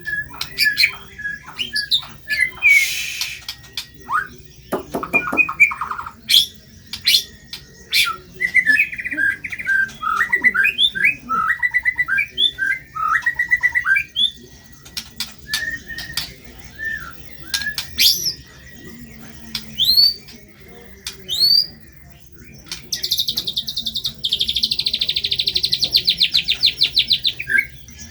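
White-rumped shama (murai batu) singing energetically: a varied run of clear sliding whistles, sharp chips and rough notes, ending in a long, rapid buzzing trill in the last few seconds.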